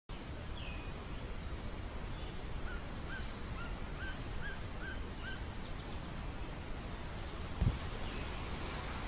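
Outdoor ambience: a steady low rumble of noise with a small bird chirping a quick run of about seven short rising notes, plus one higher call just before. Near the end there is a single thump and the background turns to a brighter hiss.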